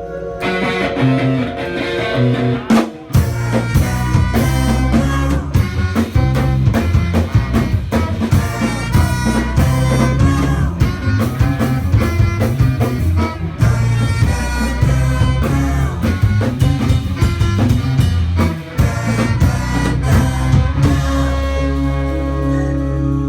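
A live instrumental band with drum kit, bass and held chords from synthesizer and horns. The drums come in hard about three seconds in and keep a steady groove, and near the end the band falls back to sustained chords.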